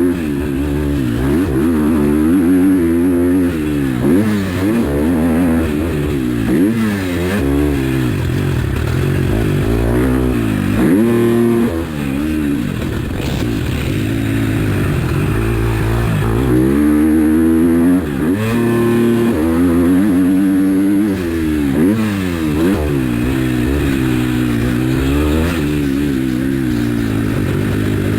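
A 2021 KTM SX-F 250's four-stroke single-cylinder engine revving hard under throttle and falling back again and again as the rider throttles and shifts around a motocross track. The pitch rises and drops many times over.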